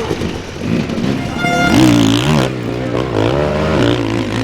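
Dirt bike engine revving, its pitch rising and falling as the throttle is worked on and off. A short high whistle-like tone sounds about a second and a half in.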